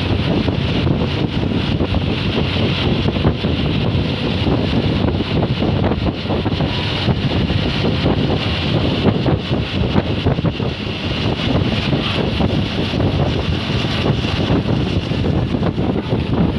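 A bus on the move: steady engine and road noise, with wind buffeting the microphone.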